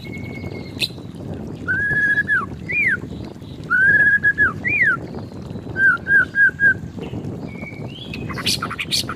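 White-rumped shama singing in clear whistles: long level notes that end in a downward slur, quick rising-and-falling notes, and a run of four short notes, then harsh clicking chatter near the end.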